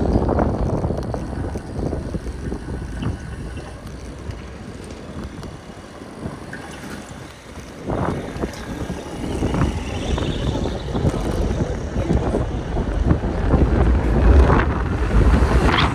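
Wind buffeting the microphone of a moving bicycle, a heavy low rumble over city street ambience. It eases off for a few seconds partway through, then builds again and is strongest near the end, with scattered short knocks and rattles.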